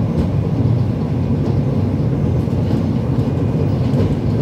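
Breda VLC tram running along the track: a steady low rumble with no rise or fall.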